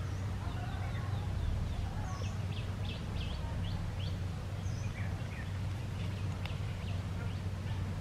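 Birds giving runs of short, quick high chirps over a steady low hum.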